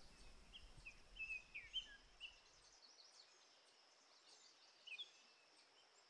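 Faint, scattered songbird chirps over quiet outdoor ambience: a cluster of short chirps in the first two and a half seconds, and a couple more about five seconds in. A low background rumble drops out about three seconds in.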